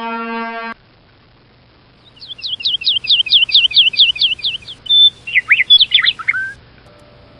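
A held horn-like note cuts off under a second in. After a short pause comes bird tweeting, used as a sound effect: a quick run of about a dozen falling chirps, then a few looser warbling chirps that stop about six and a half seconds in.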